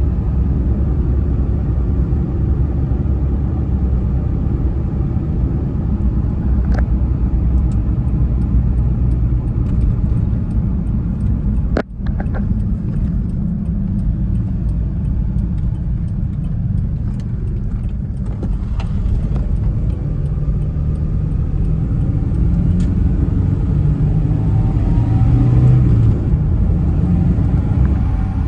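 1996 Toyota Tacoma pickup running with a steady low engine and road rumble. There is a single sharp click with a momentary drop in level a little before halfway, and the engine note climbs somewhat near the end.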